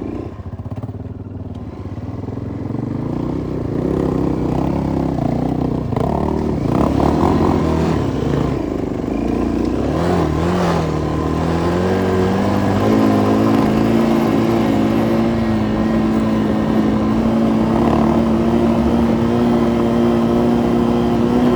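Enduro motorcycle engine running under load through mud, getting louder over the first few seconds, its revs rising and falling, then held high and steady from about halfway.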